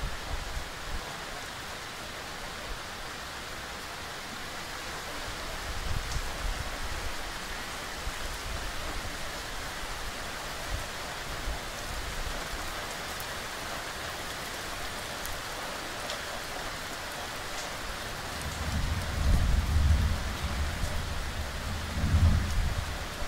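Steady rain falling on a lawn, paving and trees, an even hiss. Two bursts of deep low rumble come near the end.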